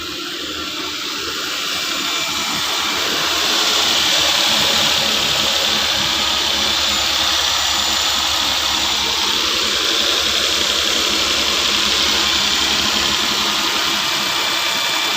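Engine running steadily under a loud, even hiss; the sound starts abruptly and holds unchanged.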